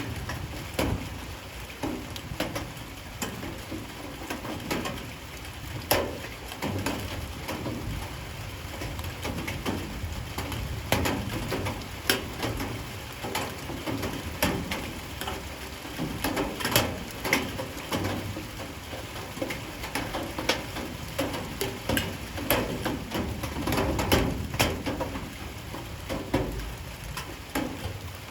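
Light rain falling steadily, with irregular sharp drips tapping and knocking on hard surfaces throughout.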